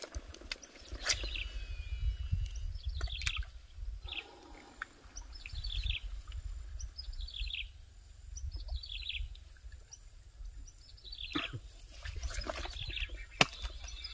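A bird calling over and over, a series of short notes that each fall in pitch, about one a second, over a steady low rumble. A few sharp clicks, the loudest near the end.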